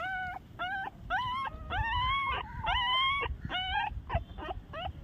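Newborn puppies whimpering and squealing: a quick run of short, high cries that rise in pitch, several pups crying over one another.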